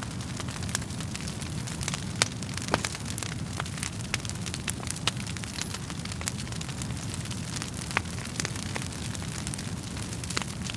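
Wood fire burning, with frequent irregular sharp crackles and pops over a steady low rush of flames.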